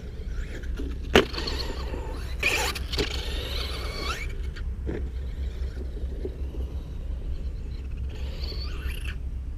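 Traxxas Slash 2WD radio-controlled short-course truck with a Velineon brushless motor, running and whining in spurts as it is driven. A few sharp knocks come through, the loudest about a second in, over a steady low rumble.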